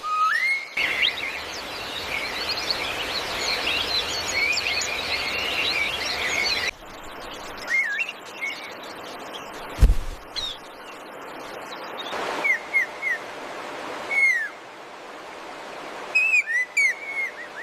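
Birds chirping: a dense chorus of many overlapping chirps for the first six or seven seconds cuts off suddenly, then fewer birds give short whistled calls, many falling in pitch. A single brief thump about ten seconds in.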